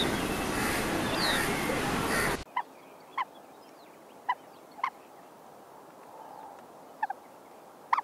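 Outdoor ambience with a steady noisy hiss and a couple of high bird chirps, cut off abruptly about two and a half seconds in. Then, over a quiet background, come short separate bird calls: five spaced a second or so apart and a quick pair near the end.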